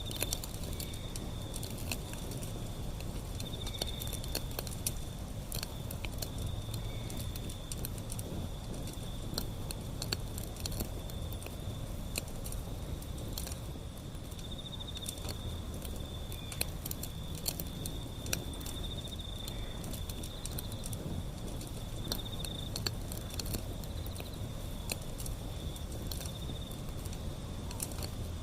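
Wood fire burning, crackling with frequent sharp pops over a low rumble of flame, with a steady high trill of insects behind it.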